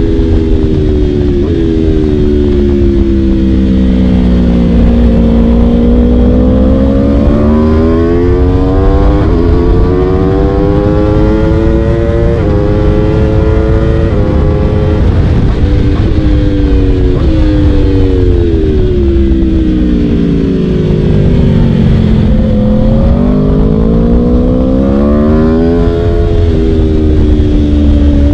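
Aprilia RSV4's V4 engine through an Akrapovic Shorty exhaust, pulling hard through the gears: the pitch climbs, drops suddenly at each upshift, and falls away when the throttle closes, several times over.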